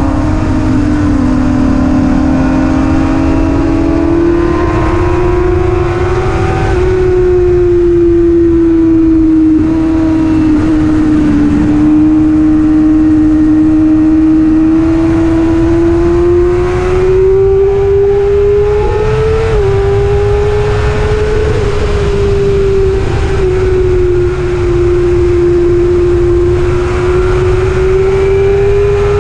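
A racing motorcycle engine held at high revs. Its pitch rises and falls slowly with the throttle, with brief dips a little before halfway and again past the middle. Underneath is a steady low rush of wind noise.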